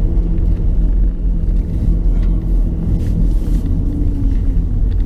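Car engine running: a steady low rumble with a constant hum.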